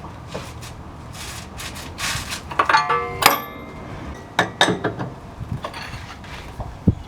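Metal hand tools and parts clanking and clattering in a garage, with rustling and a ringing metal clang about three seconds in, then a few sharp knocks.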